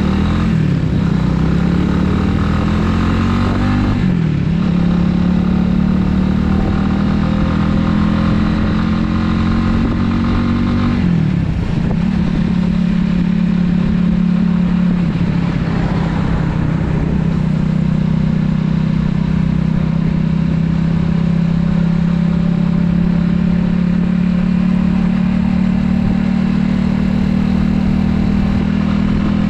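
Italika 250Z motorcycle's single-cylinder four-stroke engine pulling up through the gears: the engine note climbs, drops at a shift about four seconds in, climbs again, drops at another shift about eleven seconds in, then holds at a steady cruise.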